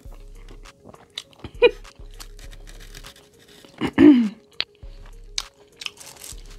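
Close-miked mouth sounds of someone eating chicken wings: chewing and smacking with small crunches and clicks, and a short hummed "mmm" falling in pitch about four seconds in.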